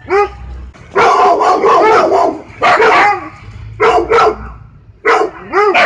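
Dog barking over and over in short, loud barks, with a dense unbroken run about a second in and a quick string of barks near the end.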